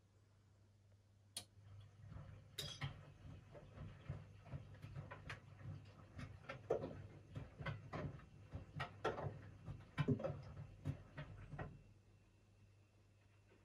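Washing machine drum turning for about ten seconds during a wash, the laundry tumbling with irregular clicks and knocks over a low motor rumble, then stopping near the end.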